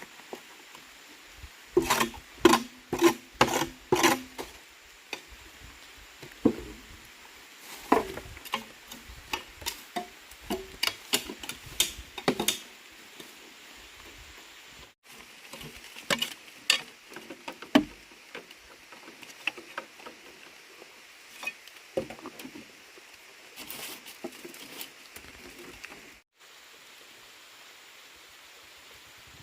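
A series of sharp knocks or strikes coming in quick runs of several hits, about two a second, with pauses between the runs.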